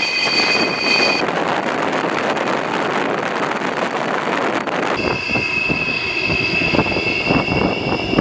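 Carrier-based aircraft engines running on the flight deck: a loud, steady roar with a high whine. The sound changes abruptly about a second in and again about five seconds in.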